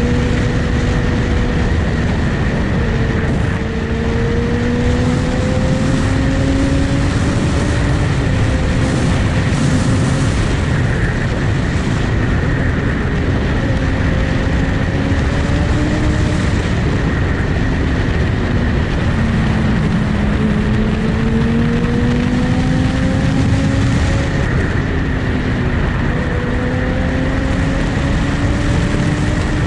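Motorcycle engine running on the move under heavy wind noise, its pitch drifting slowly up and down with small changes in speed.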